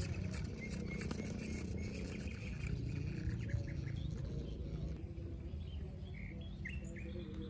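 Birds chirping in short calls over a steady low rumble, the chirps coming more often in the second half.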